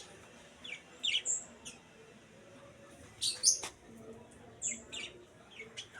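Small birds chirping: scattered short, high chirps, a few at a time, loudest about three and a half seconds in.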